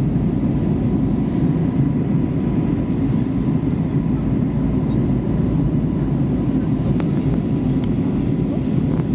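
Steady low rumble of an Airbus A320neo's engines and rushing air heard inside the passenger cabin, with a faint steady whine above it.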